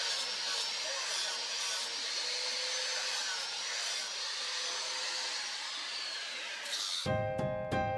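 A small electric power tool running steadily with a grinding or sanding whirr. Piano music starts near the end.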